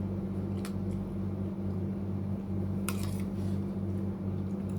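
Steady low mechanical hum with a slight regular pulsing, with a sharp click under a second in and a brighter, slightly ringing clink about three seconds in.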